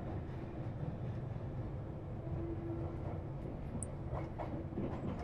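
Steady low rumble of a moving train, heard from inside a passenger carriage.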